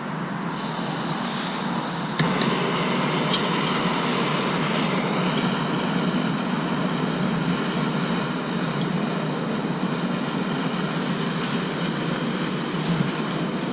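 Mini canister camping stove burning with a steady hiss of gas, heating a pot of water, with a few sharp clicks in the first few seconds.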